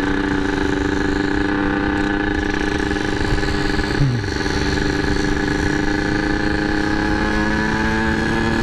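Yamaha RX-King 135 cc single-cylinder two-stroke engine running at a steady speed, holding an even pitch, with a brief falling tone about four seconds in.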